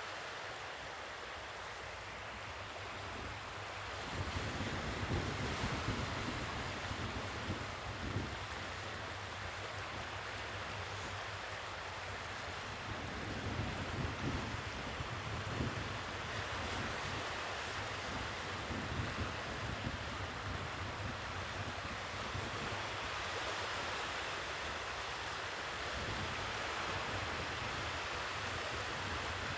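Ocean waves washing onto the shore, a steady hiss of surf with swells in the low rumble every several seconds, and some wind on the microphone.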